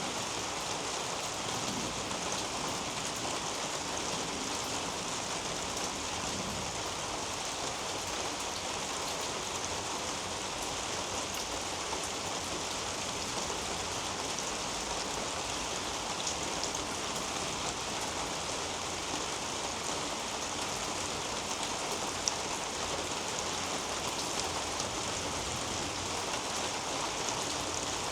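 Steady rain falling on a leafy garden canopy, with fine scattered drop ticks and one sharper drop tick about three quarters of the way through.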